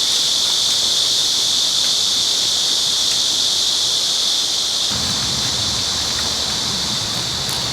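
Steady, loud chorus of cicadas buzzing in a high band. A low rumble joins it about five seconds in.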